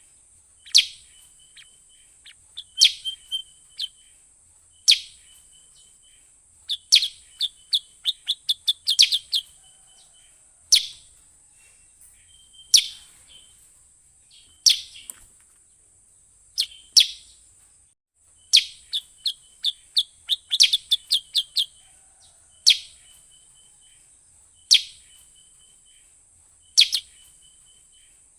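Kutilang sutra lure call: sharp, high falling chirps about every two seconds, each trailed by a short stuttering note. Twice the chirps quicken into a rapid run. A steady high hiss lies underneath.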